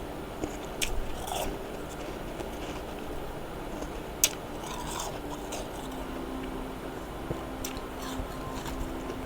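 Freezer frost being bitten and chewed close to the microphone: scattered crisp crunches and clicks, the sharpest about four seconds in.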